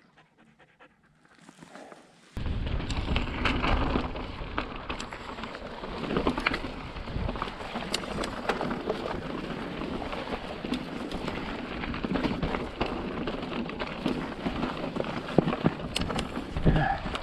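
Near quiet, then about two seconds in a sudden cut to mountain bike riding heard from a helmet camera: wind buffeting the microphone and tyres rolling over slickrock, with the bike's frequent clicks and rattles.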